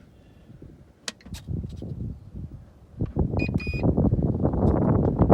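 Two short electronic beeps from the RC gear, a quarter-second apart, about three and a half seconds in, after a few light clicks. Around the beeps a loud rumbling noise sets in and keeps going, like wind buffeting the microphone or handling.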